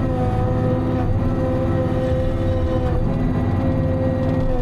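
Timberjack 608 tracked forestry machine running steadily, heard from inside its cab: a constant low drone with a steady high whine over it.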